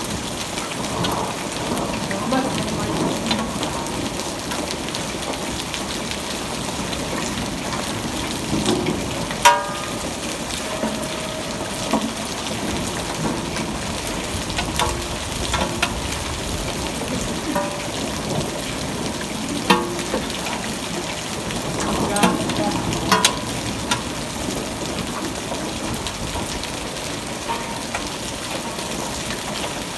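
Steady rain falling, with a few short, sharper sounds breaking through about ten seconds in and again around twenty seconds in.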